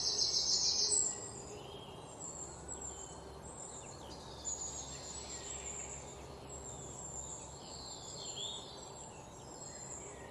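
Songbirds calling among the trees: a loud, rapid run of high chirps in the first second, then scattered chirps and short calls over a steady low outdoor background.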